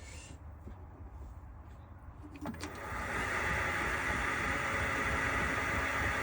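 A metalworking lathe switched on with a click about two and a half seconds in, then running steadily with a hissing whirr.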